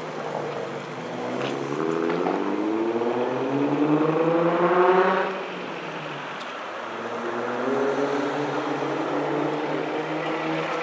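Nissan 350Z's V6 accelerating away hard, climbing in pitch for about four seconds until it cuts off sharply just past five seconds in at a shift. It then pulls up through the next gear, quieter as it gets farther off.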